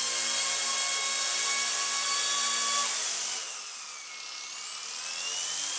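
Blade mCP X BL2 micro RC helicopter's brushless motor and rotor spinning with a steady high whine. About three seconds in, the whine drops in pitch and loudness down to the lowest rotor speed, then starts to rise again.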